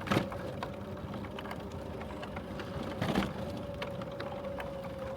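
Bicycle coasting downhill: the freewheel hub clicking and the tyres rumbling, with a steady hum under it. Two short louder rushes of noise come at the start and about three seconds in.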